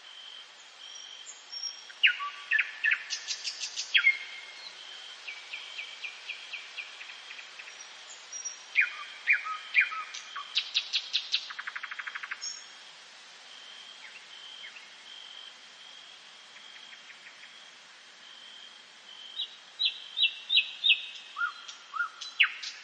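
Songbirds singing a dawn chorus, with phrases of quick falling notes and rapid trills every few seconds. A thin, steady high tone comes and goes underneath.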